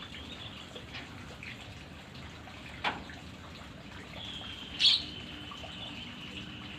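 White-rumped shama (murai batu) giving scattered short chirps and calls, with one loud sharp call a little past halfway. A sharp click sounds near the middle, and a thin steady high tone runs through the second half.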